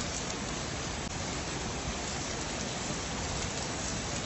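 Rain falling steadily, an even rushing noise with no breaks.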